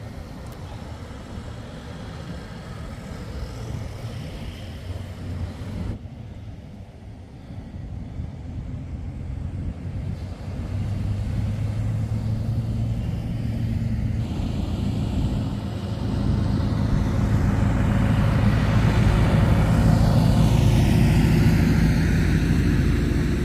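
A motor vehicle's engine running steadily and growing louder as it comes closer, loudest in the last few seconds as it moves past nearby.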